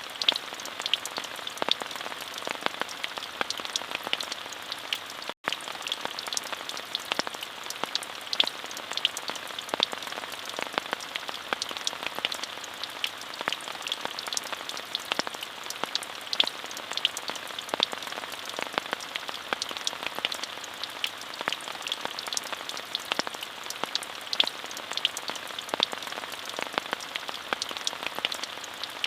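Steady rain falling, an even hiss dotted with many individual drop hits. The sound cuts out for a split second about five seconds in.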